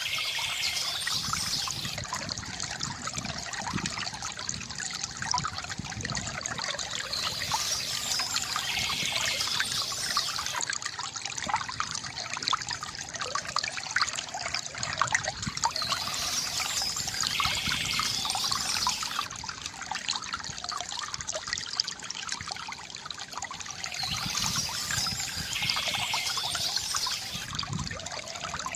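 Water trickling and gurgling steadily from a bamboo fountain, with bird song coming back about every eight or nine seconds.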